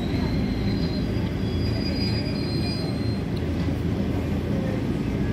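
A moving train heard from inside the car: the steady running rumble of the wheels on the rails, with a thin high wheel squeal over the first three seconds.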